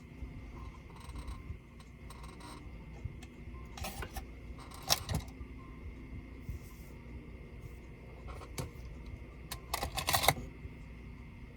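Small clicks and light metallic clatters of laptop parts and screws being handled during disassembly, with a sharper cluster about four to five seconds in and the loudest clatter near ten seconds, over a faint steady hum.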